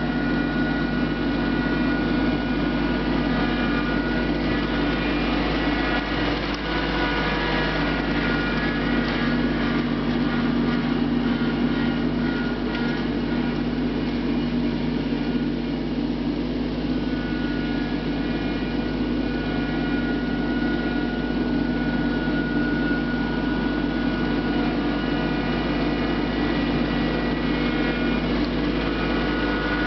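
Mahindra Max 24 compact tractor's diesel engine running steadily while working, with a thin high whine over it that drops out for a few seconds midway and comes back.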